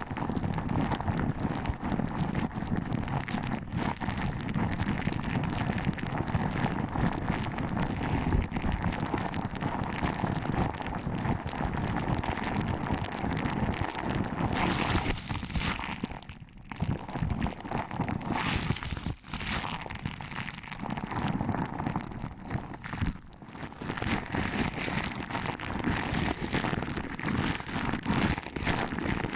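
Fingers pinching and rubbing a binaural microphone's ears up close: a dense, continuous crackling rustle, broken by a few brief pauses past the middle.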